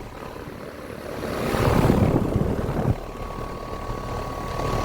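ICP central air conditioner condensers running, their fans blowing with a steady rush. The rush swells and then drops off sharply about three seconds in, after which a thin steady whine carries on.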